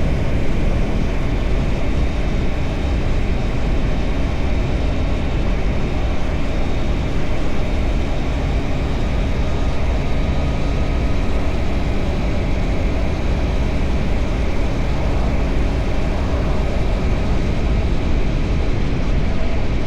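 Triumph Tiger Sport 660's inline three-cylinder engine running at a steady cruise under heavy wind rush on the microphone.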